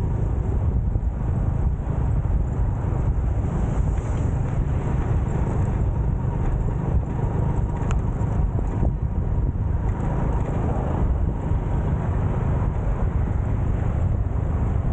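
Steady, heavy rumble of wind and road noise on the microphone of a moving motorcycle.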